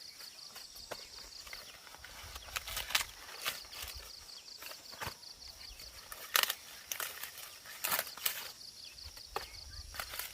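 Irregular snaps and rustles outdoors, like footsteps through vegetation, over a faint steady high pulsing sound.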